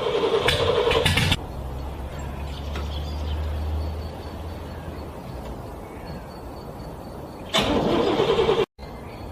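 A car engine being cranked in the cold by its starter. A loud burst of cranking stops abruptly about a second in and is followed by a quieter low rumble; a second short burst of cranking comes near the end and cuts off sharply.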